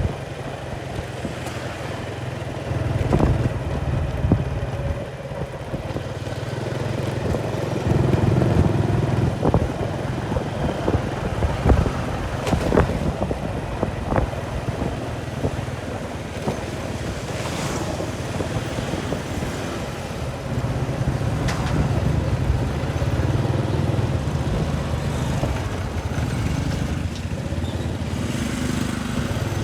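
A motor vehicle's engine running steadily, with a few short knocks or clicks now and then.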